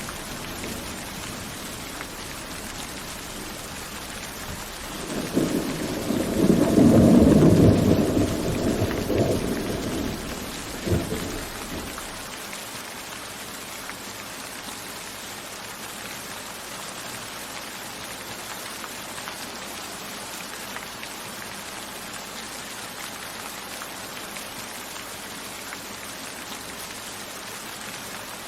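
Steady rain falling, with a roll of thunder that builds about five seconds in, peaks a couple of seconds later, gives one last crack near eleven seconds and dies away soon after, leaving only the rain.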